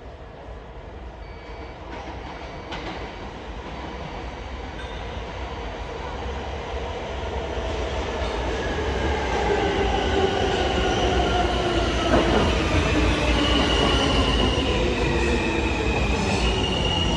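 R160 subway train approaching and pulling into the station: its rumble grows steadily louder, and from about halfway through the wheels squeal in high, steady tones.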